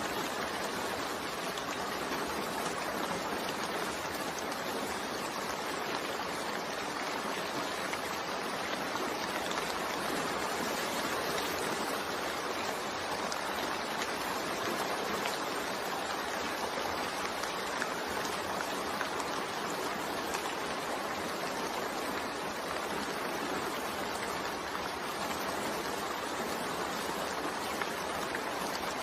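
Steady rain, an even hiss of falling water with no single drops standing out.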